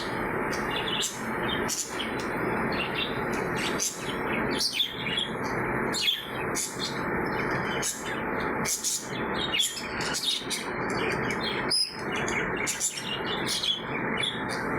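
Small birds chirping in short, high calls, many times a second in places, over a steady background hiss.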